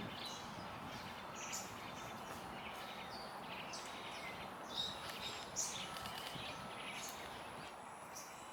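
Wild birds chirping: short, high calls come now and then over a steady background hiss, the most prominent ones a little under five seconds and again at about five and a half seconds in.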